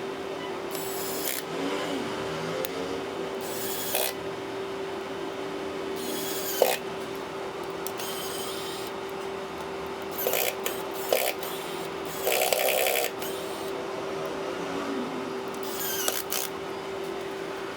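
Short scrapes and rubbing from small hand tools and tablet parts being handled, with a few sharp clicks, over a steady low hum.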